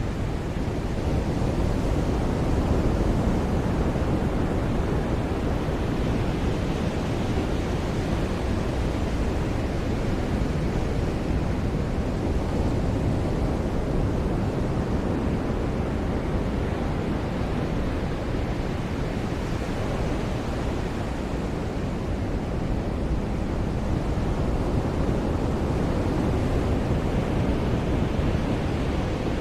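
Ocean surf breaking and washing up a beach: a steady rushing hiss that slowly swells and eases as the waves come in.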